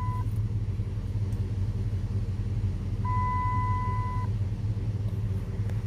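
2005 Dodge Durango's 5.7 L Hemi V8 idling steadily, left running after an oil change. A steady electronic beep sounds for about a second, a few seconds in.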